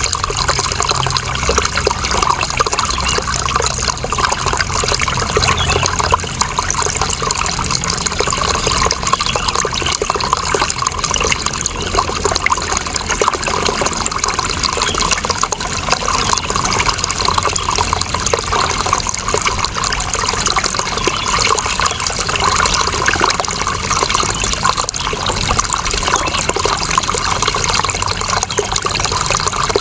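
Running water flowing steadily, an even rushing sound without breaks or changes.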